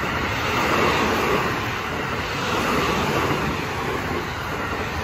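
JR West 225 series 100-subseries electric train passing close by: a steady rush and rumble of wheels on the rails.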